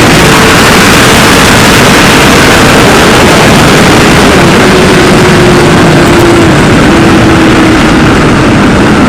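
Motorcycle at speed heard through a helmet-mounted microphone: heavy, steady wind roar over the engine, whose note falls slowly as the bike slows.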